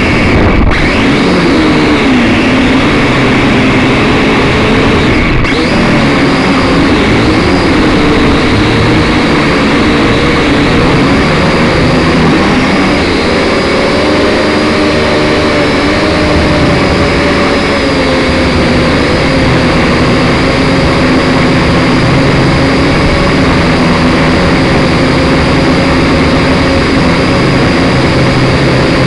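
Syma X5SC quadcopter's small electric motors and propellers whining, heard loud and close through its onboard camera. The pitch wavers up and down as the motor speeds change, then holds steadier later on. The sound cuts out for an instant twice in the first few seconds.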